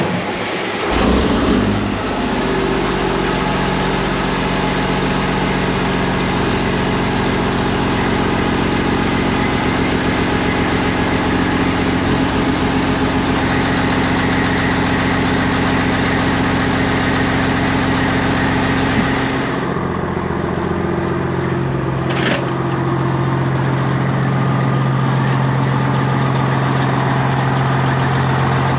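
Semi truck's diesel engine starting and catching, rising briefly about a second in, then idling steadily. Around twenty seconds in the idle note shifts, and a single sharp click follows a couple of seconds later.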